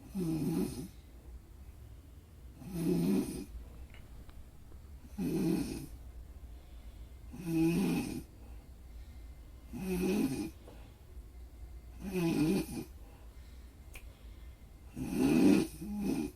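Snoring, one loud snore roughly every two and a half seconds, each lasting about a second, over a steady low hum; the last snore near the end is followed at once by a shorter one.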